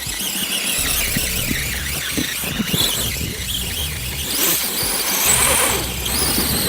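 Electric RC off-road truck's motor and geartrain whining under throttle while climbing a hill. The high-pitched whine rises and falls as the throttle is worked, and is busiest in the last couple of seconds.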